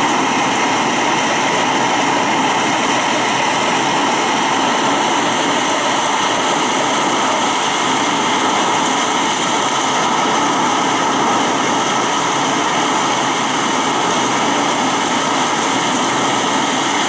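Heavy wind-driven rain pouring down in a thunderstorm, a steady dense hiss with no letup.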